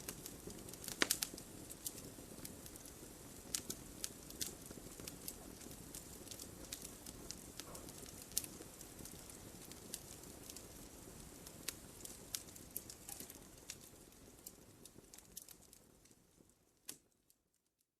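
Wood fire in a fireplace crackling: a soft steady hiss under scattered sharp pops and snaps. It fades out to silence just before the end.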